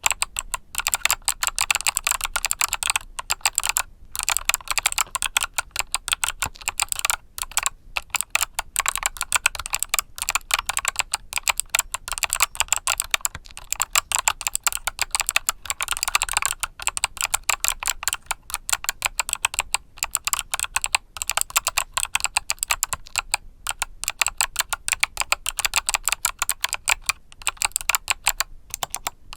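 Fast continuous typing on a mechanical keyboard with Kailh Box switches, dense crisp key clicks with a few brief pauses.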